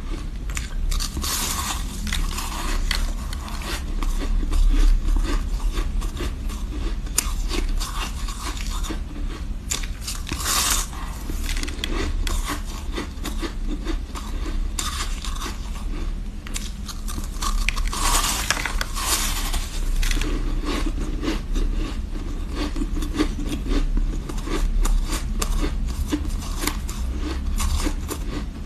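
Ice being bitten and chewed close to the microphone: a continuous run of crunching and crackling, with louder crunches near the start, about ten seconds in and again about eighteen seconds in.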